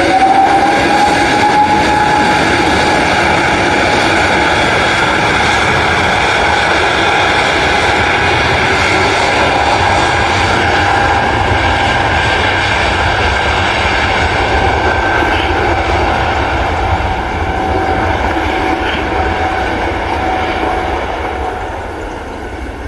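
Airliner passing close with its engines loud: a whine rises just before it starts, then holds steady over a dense roar, and the sound fades near the end.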